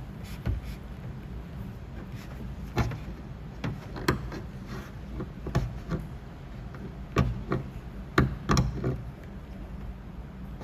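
About eight sharp, irregularly spaced taps and knocks on a car door's sheet-metal panel from paintless dent repair tools, over a steady low hum.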